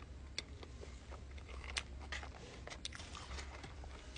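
A man chewing a mouthful of pepperoni pizza: faint, scattered crunches and mouth clicks over a low steady hum.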